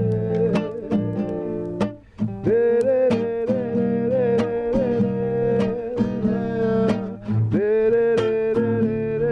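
Acoustic guitar strummed in a steady rhythm, with a long held melody note over it that slides into a new pitch twice. There is a brief drop in the playing about two seconds in.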